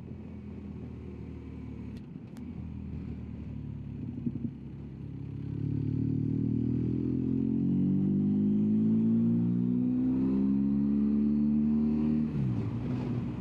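BMW R1250GS Adventure's boxer twin engine pulling under load, growing louder about five seconds in and rising slowly in pitch for several seconds, then dropping near the end as the throttle eases, over a steady low rush of wind and road.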